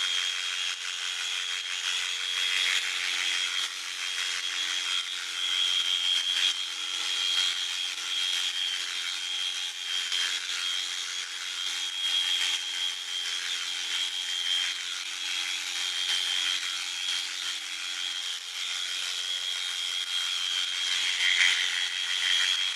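Electric sheep-shearing clippers running without a break, a steady high whine over a hiss from the cutters working through the fleece.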